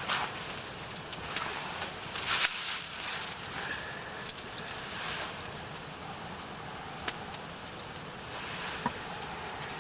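Food cooking over a campfire: a steady hiss with scattered sharp crackles and clicks, and one louder crackle about two and a half seconds in.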